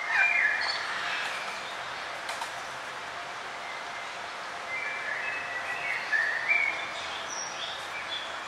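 Forest birds chirping and whistling over a steady background hiss. The short calls come in clusters at the start and again from about five to seven seconds in.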